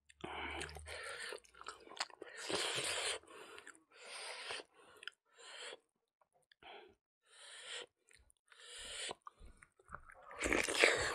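Close-miked chewing of a cooked pig snout with rice, coming in short, uneven bursts, with a louder bite near the end.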